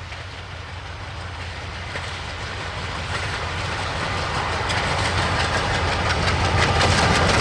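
ALCO WDM-3A diesel locomotive approaching at speed, its engine's low drone growing steadily louder. In the last few seconds sharp wheel clicks over the rail joints start to come through.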